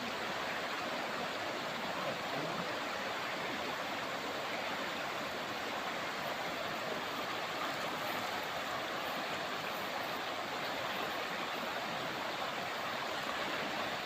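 Shallow river water running steadily, a constant rushing, babbling noise.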